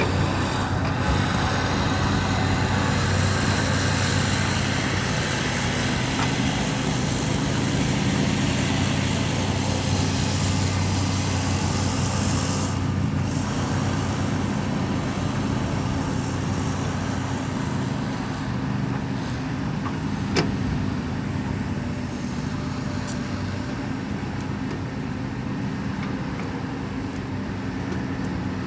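Heavy construction machinery's diesel engine running steadily, with a sharp knock about two-thirds of the way through.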